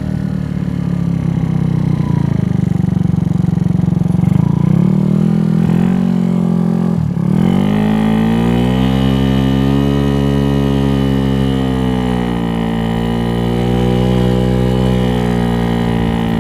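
Venom X18 scooter's single-cylinder four-stroke GY6 engine, bored out with an 88cc big bore kit, running under way. About seven seconds in the revs drop sharply, then climb quickly and hold high, sagging briefly around twelve seconds before picking up again.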